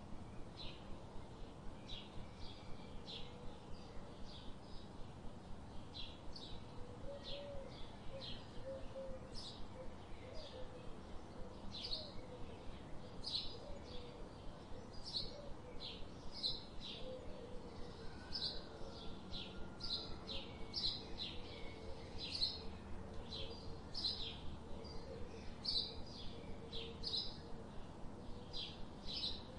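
Birds chirping over and over, a short high chirp every second or so, with a fainter, lower wavering call joining in through the middle.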